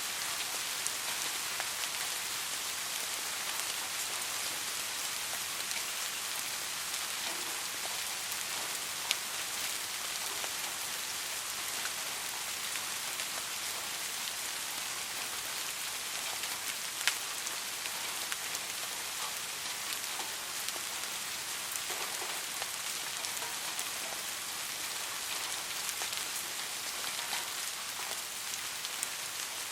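Steady soft rain falling, an even hiss with scattered individual drop taps, two of them sharper about nine and seventeen seconds in.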